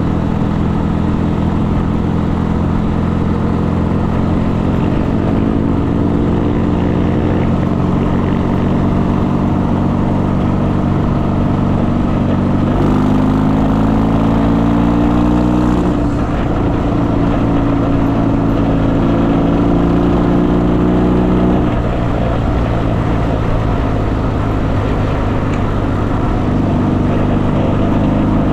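Motorcycle engine running steadily while riding. Its pitch rises slowly, jumps up about halfway through, falls back a few seconds later, and drops again near the last third.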